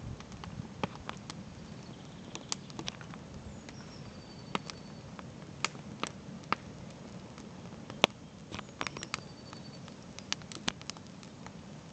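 Campfire wood crackling, with irregular sharp pops over a low steady rush of the flames; the loudest pop comes about eight seconds in.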